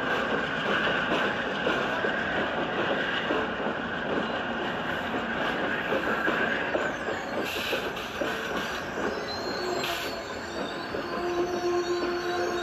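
A train rolling along the rails close by, wheels clattering, with a high steady wheel squeal strongest in the first few seconds. Two short sharp sounds come about seven and a half and ten seconds in.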